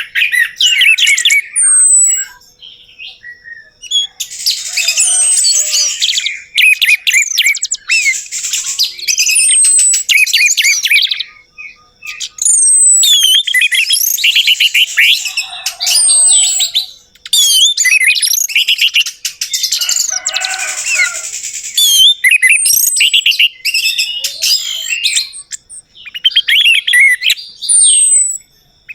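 Orange-headed thrush (anis merah) singing fast, varied phrases of chirps and gliding whistles, in bursts of one to three seconds with short pauses between them.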